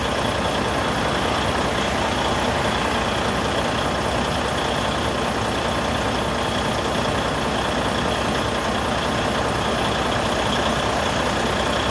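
Vehicle engine idling, a steady, even rumble and hiss that does not change.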